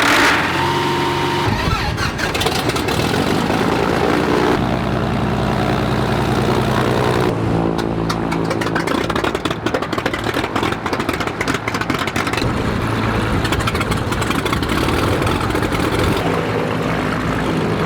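Small piston-engine propeller airplanes starting up and running, one engine after another, with abrupt changes from one engine's sound to the next several times.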